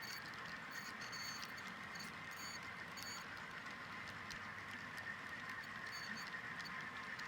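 HO scale model freight train rolling along the track: a steady rolling hiss with light, irregular clicking of the cars' wheels over the rail joints.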